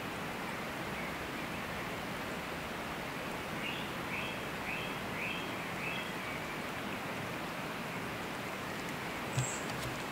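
Steady outdoor background hiss with a bird calling a quick series of about six short chirps midway, and one sharp click near the end.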